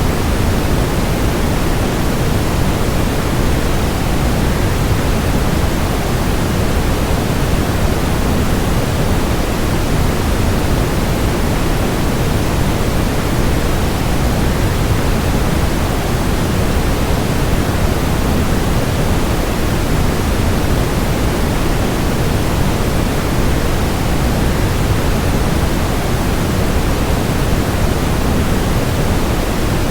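Waterfall sound blended with steady white noise: an even, unbroken rush, heaviest in the low range, with no change throughout.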